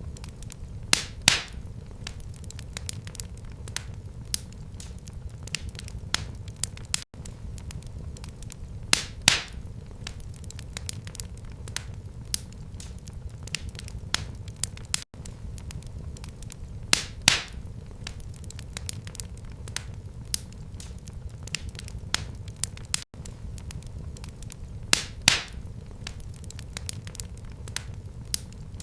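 Wood fire in a fireplace crackling, with scattered sharp pops over a low steady rumble. A few louder pops stand out, coming about every eight seconds in a repeating pattern.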